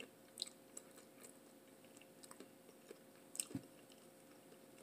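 Faint close-up chewing of food: a few scattered soft mouth clicks, a little louder twice about three and a half seconds in, over a quiet room hum.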